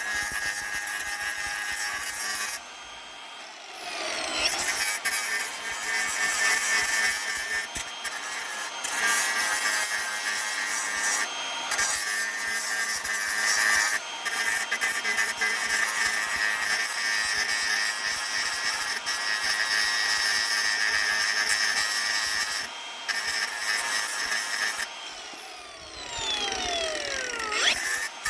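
Handheld electric power tool running under load against the workpiece for long stretches. It stops twice: once about three seconds in and again near the end, and each time the motor whine winds down and then rises as it spins back up.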